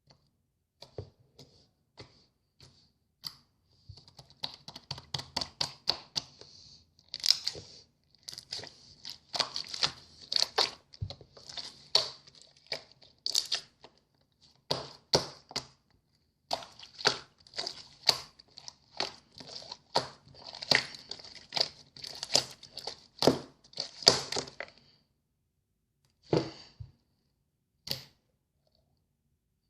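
Clear slime with shell charm pieces mixed in, being squished and stretched by hand, giving rapid sticky clicks and pops. The clicking is dense for most of the stretch, then thins to a few single pops near the end.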